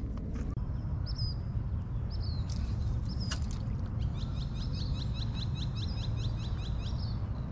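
Small birds chirping: a few separate short chirps, then a quick run of repeated chirps, about four a second, through the second half, over a low steady rumble.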